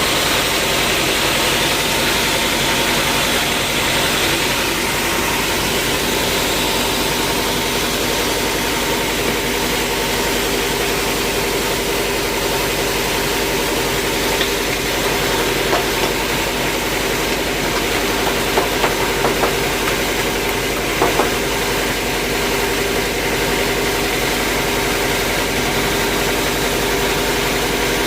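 Sawmill engine running steadily at constant speed, with a few light knocks in the second half.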